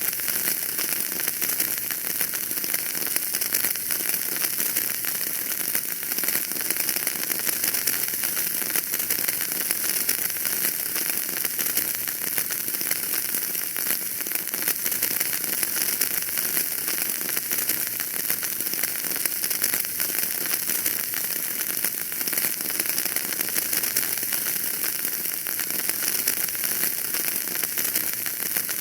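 Wood fire burning in a fireplace, crackling steadily with dense small pops over a constant hiss.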